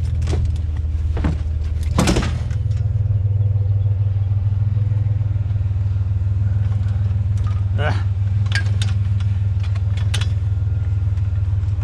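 Pickup truck engine running steadily as a low, even drone, with a few scattered knocks and rattles.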